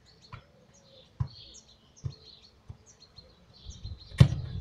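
Small birds chirping in short repeated notes, with a few soft knocks and one sharp thump about four seconds in.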